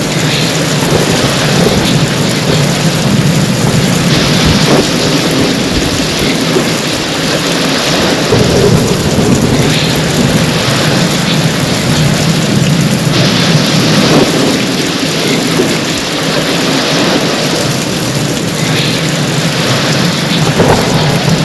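Heavy rain pouring steadily, with a low, continuous rumble of thunder underneath.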